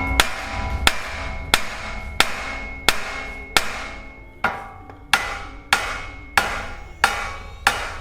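Big hammer striking the side of a Honda's steel steering knuckle at the tie rod end, about twelve ringing metal blows at an even pace of roughly one and a half a second, to shock the stuck tapered tie rod end stud loose from the knuckle.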